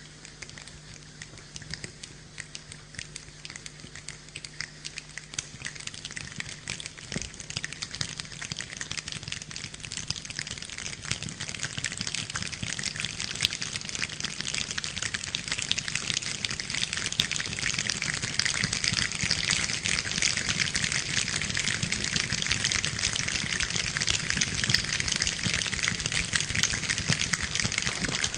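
A choir imitating rain: a dense patter of many small clicks that builds steadily louder, like a shower gathering strength.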